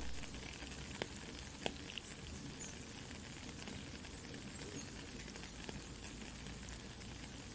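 Steady soft rain hiss mixed with a crackling campfire, with a few sharp crackle pops about one to two seconds in.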